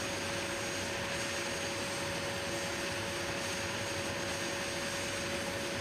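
A-10 Thunderbolt II's twin General Electric TF34 turbofan engines running steadily, a constant rushing noise with a steady whine.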